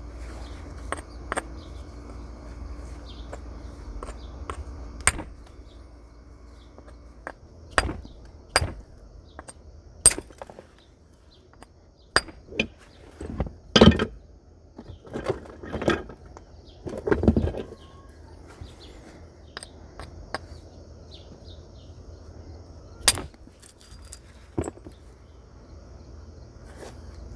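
Flintknapping: a raw stone nodule struck at irregular intervals with a natural hammer, each sharp knock detaching a flake. The blows are heaviest and most frequent around the middle.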